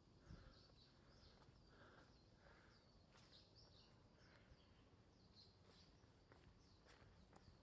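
Faint forest ambience: birds chirping in short, repeated calls, with a few faint clicks of footsteps on the trail.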